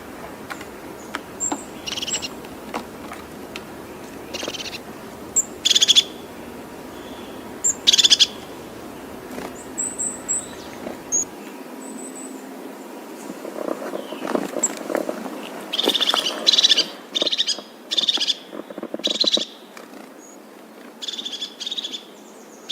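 Birds calling: short separate calls, repeated irregularly, with a few thin high chirps, and a quicker cluster of calls in the second half.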